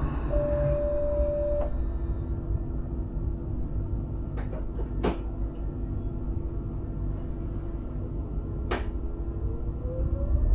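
Sprinter electric train running, heard from the driver's cab as a steady low rumble, with a short steady beep about half a second in and a few sharp clicks. Near the end a whine rises in pitch as the train picks up speed.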